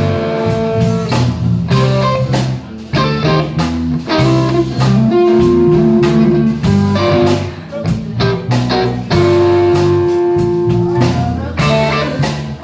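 A blues band playing live in an instrumental stretch of a song, with no singing: a guitar leads over a bass line and a steady drum beat.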